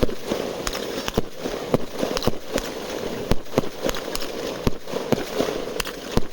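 Fireworks going off: an irregular run of a dozen or more sharp bangs and pops over a steady background noise.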